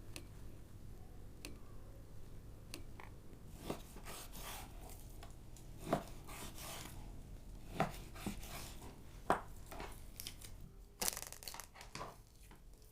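Hands at work preparing food: scattered sharp knocks and short rustling, scraping sounds, the first about three seconds in.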